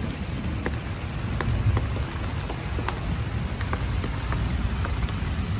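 Steady rain, with scattered drops ticking sharply close by, over a low wind rumble on the microphone.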